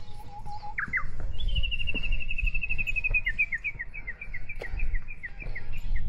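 A songbird singing: a few low whistled notes, then a fast high trill and a long run of repeated two-part notes. Underneath are a low rumble and the crunch of footsteps on the trail.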